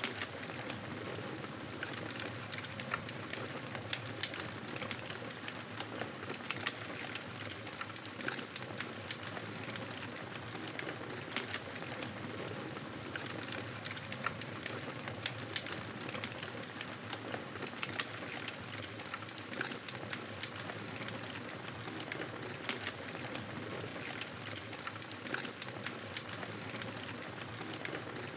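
Fire in a fireplace crackling: a steady hiss of flames with frequent small, irregular pops and snaps.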